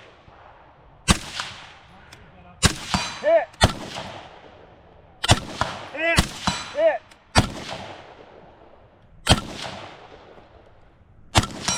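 Rifle shots fired at an uneven pace, one every one to two seconds, from two prone shooters engaging a steel target. Several shots are followed a moment later by the ring of the hit steel plate downrange.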